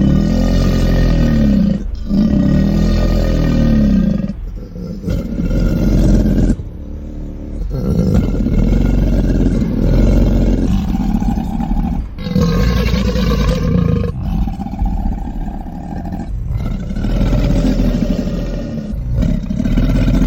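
A run of loud monster roars and growls made as creature sound effects, about ten in all. Each lasts a second or two, and its pitch swoops up and down, with short breaks between them.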